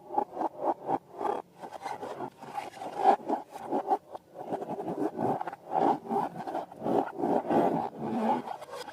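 Rapid rubbing and scraping strokes, about four a second, uneven in strength, from slime and balloons being handled.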